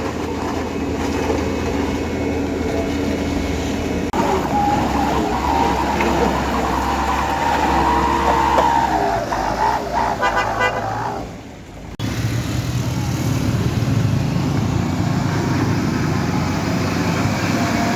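Heavy road vehicles with engines running and a horn sounding, a wavering tone lasting from about four to eleven seconds in. The sound changes abruptly about four seconds in and again about twelve seconds in.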